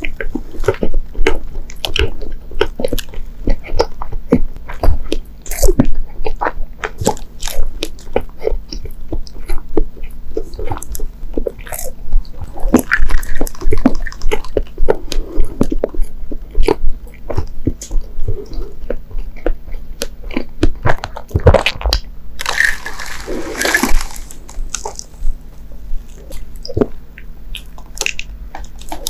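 Close-miked eating: a mouth chewing soft dorayaki (pancake with bean paste), a steady run of wet, sticky smacks and clicks. Near the end comes a bite into a soft mochi daifuku.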